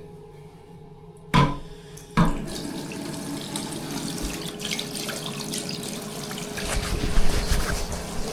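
A washbasin tap turned on and water running steadily into the sink, growing louder near the end. Before it come two sharp knocks less than a second apart, the second as the water starts.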